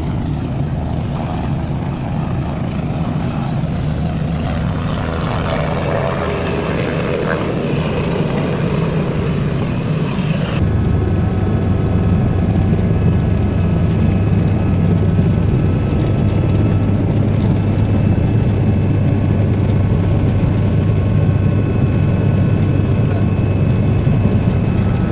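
Helicopter engine and rotor noise, steady and low-pitched. About ten seconds in it turns abruptly louder, with steady whining tones over the rumble.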